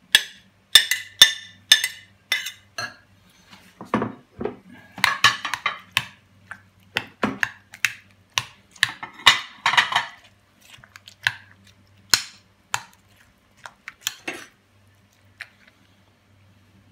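A utensil clinking and scraping against a mixing bowl as salad ingredients are scooped in and stirred: irregular sharp knocks with short ringing, and a couple of longer scraping stretches.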